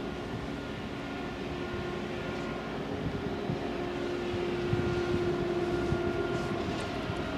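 Electric ICE high-speed train arriving slowly: a steady rumble with a held multi-tone electric whine, growing slightly louder as it nears.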